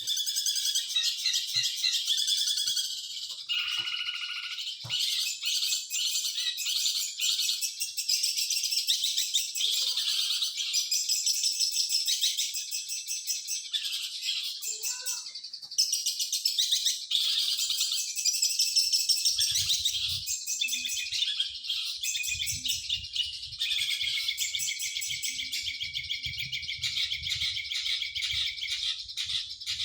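Long-tailed shrike (cendet) singing a fast, continuous chattering warble of high notes. A low rumble joins about two-thirds of the way through.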